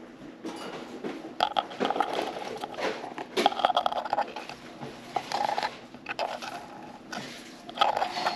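Budgies pecking at and husking golden millet seeds: irregular clusters of crisp cracking and crunching clicks, with bits of chirping chatter mixed in.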